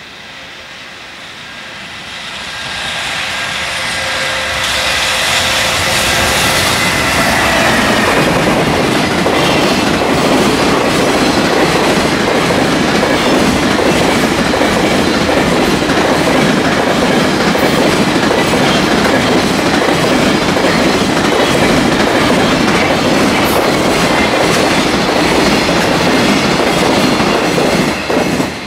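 Long container freight train behind an EF210 electric locomotive passing on the rails. It grows louder over the first several seconds as it approaches, then the container wagons rumble and clatter over the rail joints in a steady run, and the sound drops off suddenly just before the end.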